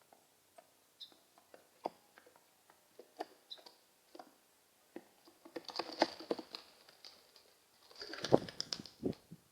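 Pigeons moving about at close range: scattered light taps and clicks, then two bursts of rapid tapping and rustling in the second half, the second one the loudest.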